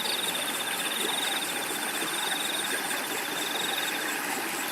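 Steady rush of a flowing river, with a cricket trilling in a high, evenly pulsed chirp that stops near the end.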